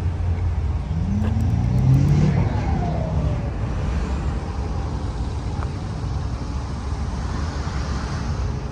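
A car engine accelerating, its pitch rising about a second in, then falling away as it passes, over a steady low rumble of engines and traffic.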